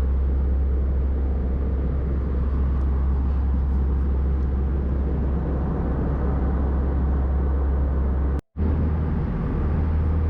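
Steady low drone of an Airbus A320 cabin in flight, the engines and airflow making a constant rumble with a hum beneath it. The sound cuts out completely for a moment near the end, then returns unchanged.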